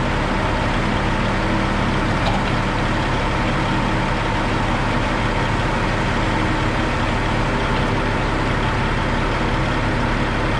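A heavy vehicle engine idling steadily, with no change in pitch or level.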